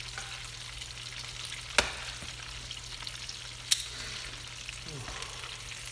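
Breaded chicken pieces frying in hot oil, a steady crackling sizzle. Two sharp clicks sound over it, about two seconds apart.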